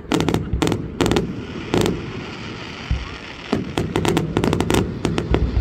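Fireworks exploding in quick clusters of sharp cracks and bangs, over a low rumble from the display.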